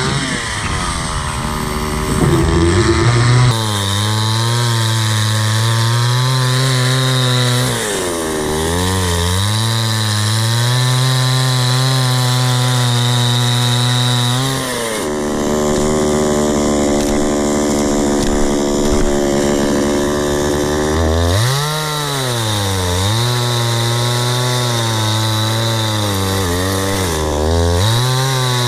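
Two-stroke chainsaw running at high revs while cutting through a log. Its engine pitch dips and climbs back several times, about 8, 15, 22 and 27 seconds in.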